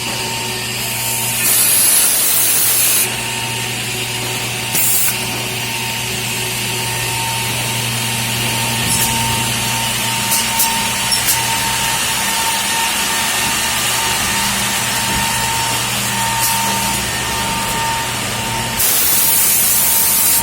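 Automatic edge banding machine running under test, with a steady motor hum and a held whine. Loud hissing bursts come about a second and a half in, briefly near five seconds, and again near the end, with a few light clicks around the middle.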